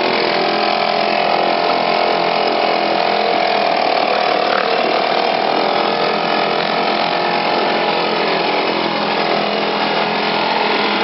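British Seagull two-stroke outboard motor running steadily on its stand while warming up after a rope start, its pitch dipping slightly about four seconds in.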